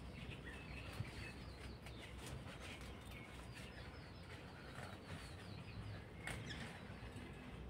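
Faint birdsong outdoors: a run of quick high chirps in the first few seconds over a low steady background. A brief rustle of leaves comes around six seconds in.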